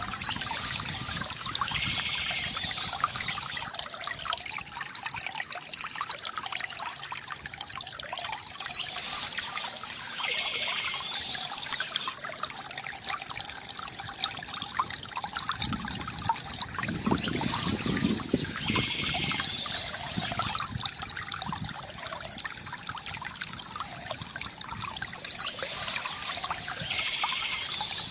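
Small stream trickling and splashing steadily, with a brighter splashing surge recurring about every eight to nine seconds.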